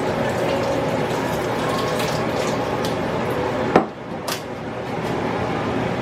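Liquid being poured into a pan of chicken wings over a steady background noise, with a sharp clink of kitchenware about two-thirds of the way through and a lighter one just after.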